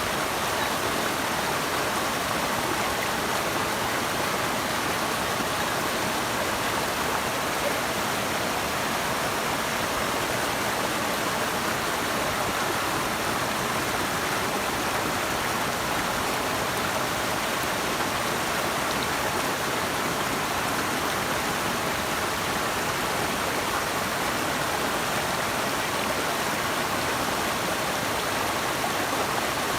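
Running water rushing steadily, an even, unbroken hiss with no changes.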